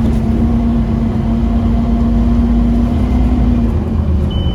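Scania OmniCity double-decker bus's 9.3-litre five-cylinder diesel running, a loud low drone with a steady whine on top that cuts off about three and a half seconds in.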